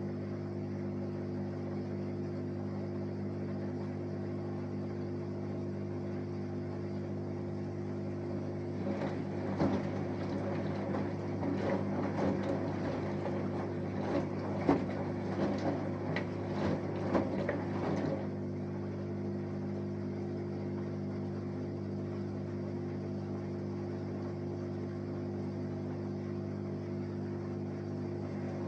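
Samsung Eco Bubble 6.5 kg washing machine running mid-wash with a steady hum. From about 9 to 18 seconds in, water and laundry slosh and splash irregularly in the turning drum.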